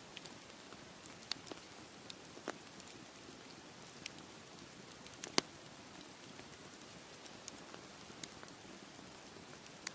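Wood fire crackling, with irregular sharp pops over a steady hiss; one louder pop about halfway through.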